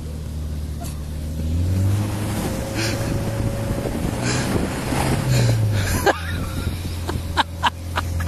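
Land Rover Discovery engine running, revving up about two seconds in and easing off about six seconds in. Several sharp knocks near the end.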